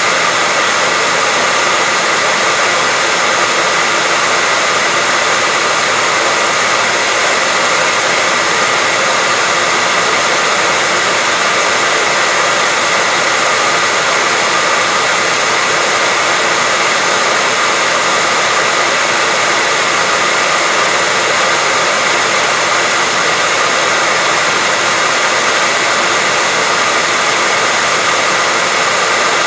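Hair dryer blowing steadily: an unbroken rush of air with a faint high whine from the motor, played continuously as white noise to lull a baby to sleep.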